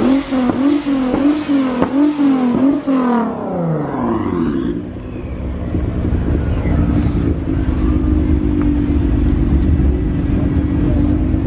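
A car engine revved in quick repeated blips, its pitch wobbling up and down a couple of times a second. About three seconds in the pitch falls away sharply, and a steady engine drone follows.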